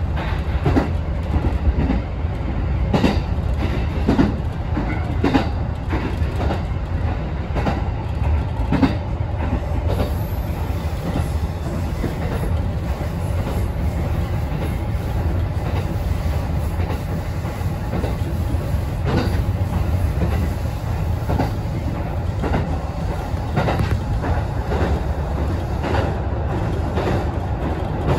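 A Kintetsu express train running along the line, heard from inside its front car: a steady low rumble, with sharp clicks from the wheels passing over rail joints that come unevenly, thicker in the first third and again later on.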